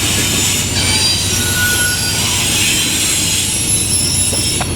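Train rolling past with its wheels squealing against the rails: several thin high-pitched squeals over the steady low rumble of the cars.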